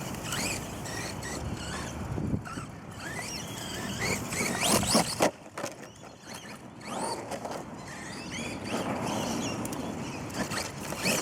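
Brushless electric motor of an RC monster truck on a 3-cell LiPo, whining up and down in pitch over and over as it is driven hard, over a rough, scrabbling noise.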